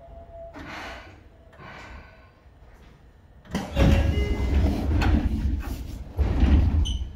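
Seibu 2000 series electric train heard from inside the car, above its line breaker: two short hisses, then about halfway a sudden loud rumbling clatter that lasts a couple of seconds, a brief lull, and a second loud burst near the end.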